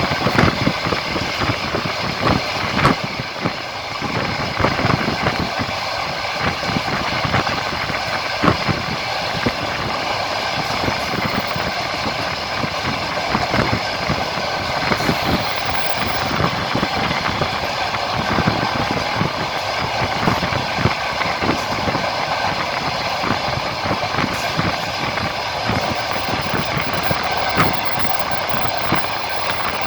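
Clatter of train wheels on the rails with steady rolling noise, heard from the window of a moving train: many short, irregular knocks over a constant rumble.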